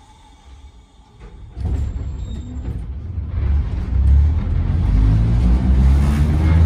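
Interior of a Sangi Railway Hokusei Line narrow-gauge electric railcar (Mo 275) pulling away from a stop. After about a second and a half of quiet, the low running rumble of motors and wheels sets in and grows steadily louder as the car gathers speed.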